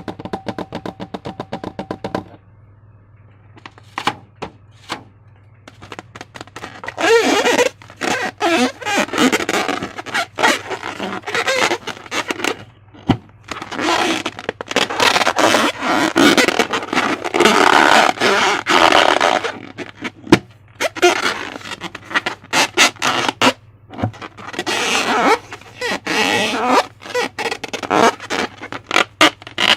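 Slime being squished and worked by hand, with dense wet crackles and popping clicks in bursts from about seven seconds in. A short pitched tone sounds at the start, and a steady low hum runs underneath.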